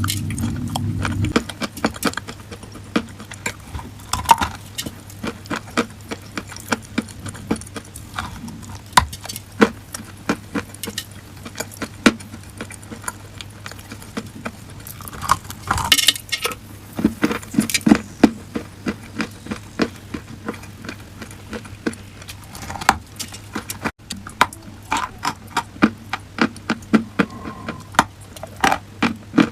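Dry, crunchy chalk crunching: a long run of sharp, crisp crunches, several a second, with a louder cluster about halfway through.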